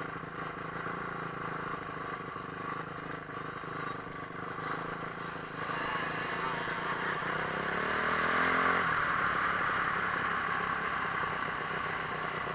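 Motocross bike engine running at steady low revs, then rising in pitch as it accelerates from about six seconds in, peaking near nine seconds before the note breaks off into a rushing noise.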